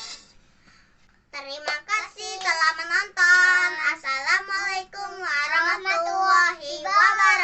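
A child singing unaccompanied, beginning about a second in after the backing music stops, with long held and gliding notes.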